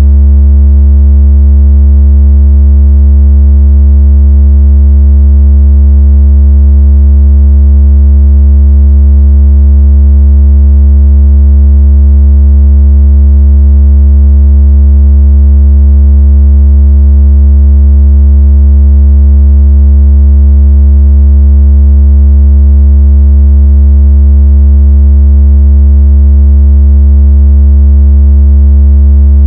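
A very loud, deep electronic tone held perfectly steady, with a buzzy edge. It is a speaker-cleaning tone, played to shake water out of a phone speaker and to imitate strong phone vibration.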